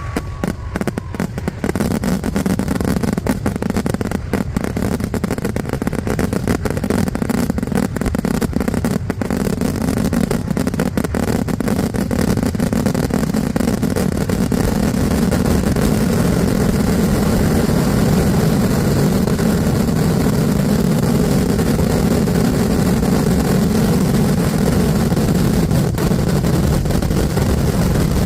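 Temple-festival fireworks barrage: a rapid string of cracker blasts in the first couple of seconds merges into a dense, continuous rumble of explosions that slowly grows louder.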